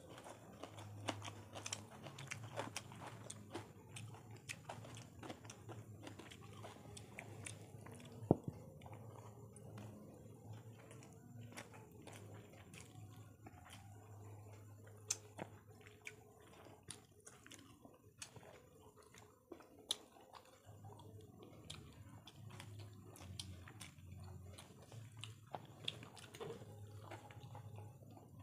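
Close-miked chewing and biting as two people eat chicken biryani and boiled eggs with their fingers. Scattered small clicks run through it, the sharpest about eight seconds in, over a faint low hum.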